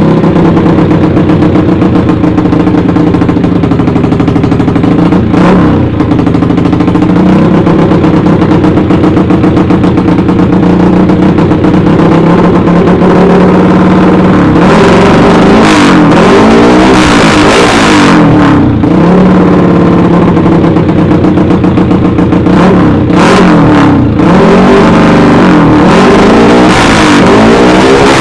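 Bored-up Yamaha Jupiter single-cylinder four-stroke motorcycle engine running loud through a CLD Monster aftermarket exhaust, holding a fairly steady speed at first, then revved up and down again and again in the second half.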